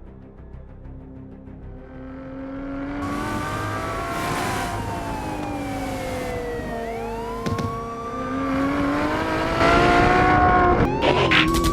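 Car engines revving hard, their pitch sliding up and down as the cars accelerate and ease off. The engines grow loud about three seconds in and louder still near the end.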